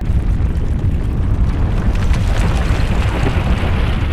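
Earthquake rumble: a loud, deep rumbling noise that starts abruptly and holds steady, with scattered rattles over it.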